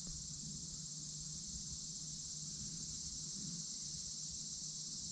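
Chorus of insects: a steady, high-pitched shrilling, with a faint low hum beneath it.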